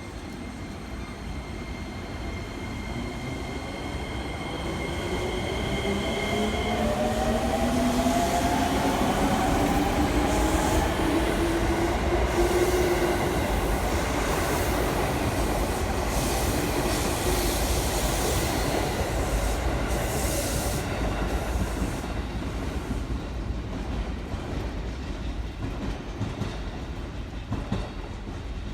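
JR 205-series electric train pulling away, its traction motors whining and rising in pitch as it picks up speed. The wheels clatter over rail joints as the cars go by, with some wheel squeal. The sound builds to its loudest in the middle and then eases off.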